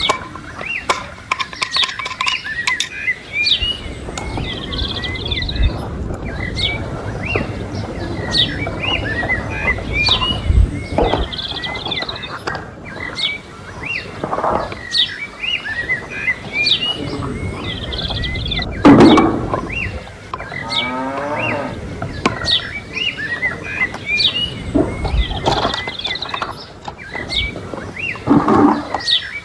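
Small birds chirping over and over in short, rising chirps. A few louder sudden sounds come and go, the loudest about two-thirds of the way through.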